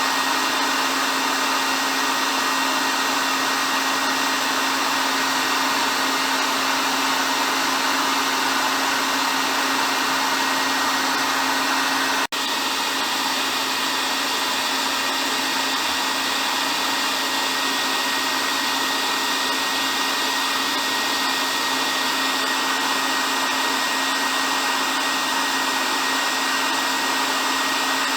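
Hair dryer running steadily: an even rush of blown air over a motor hum, with a thin high whine. The sound drops out for an instant about twelve seconds in, then carries on unchanged.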